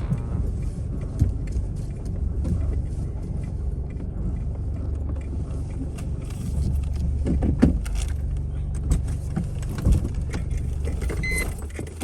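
Car driving along, its engine running as a steady low hum, with occasional small knocks and rattles.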